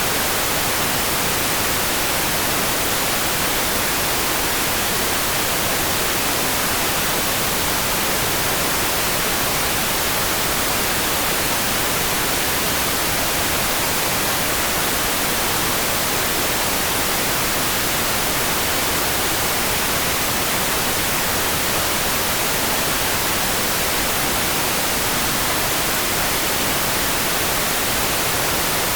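Steady, even hiss of a sleep-sound noise track, brightest in the high end, with no separate drops, thunder or changes in level.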